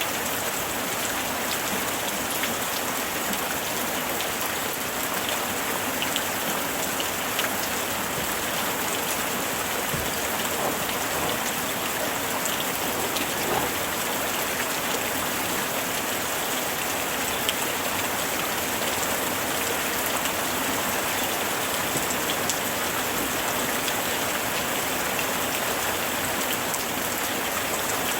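Steady summer rain falling, a continuous even hiss with scattered individual drop ticks on a surface.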